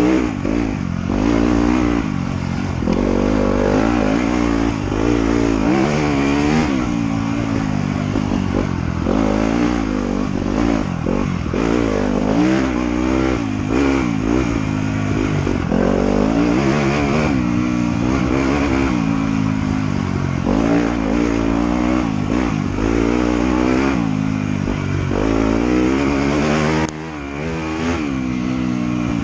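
Off-road motorcycle engine revving up and down continuously as it is ridden on a trail, with repeated throttle rises and drops every second or two and a brief drop near the end.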